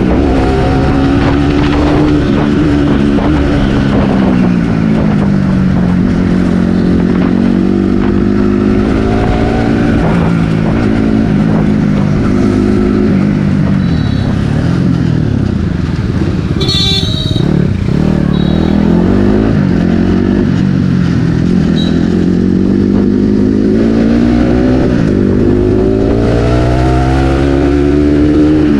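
Bajaj Pulsar NS200's single-cylinder engine and exhaust under way on the road. The engine pitch falls over the first few seconds, then rises and falls with the throttle and gear changes, and climbs again near the end. A short high-pitched sound comes about 17 seconds in.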